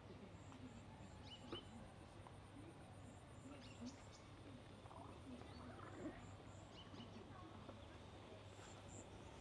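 Near silence: faint outdoor ambience with a few short, scattered bird chirps over a faint, evenly pulsing high sound.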